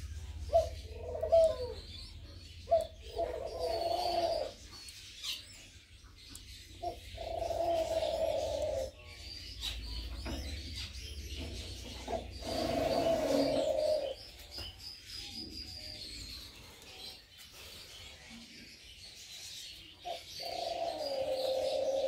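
Pigeons cooing: four long, rolling coos spaced several seconds apart, with a few short calls in the first three seconds. Faint high chirping runs underneath.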